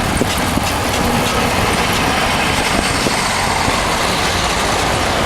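1988 Honda Transalp's V-twin engine running steadily on the road, mixed with a steady rush of wind and road noise.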